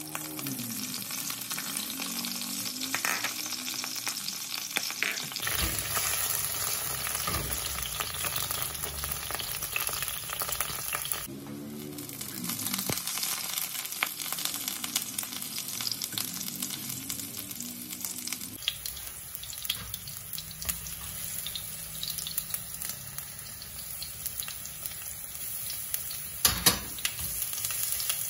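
Hot oil sizzling in a nonstick wok with blocks of tofu frying in it, the spatula scraping and knocking against the pan now and then, with two sharp knocks near the end. The sizzle changes level abruptly a few times.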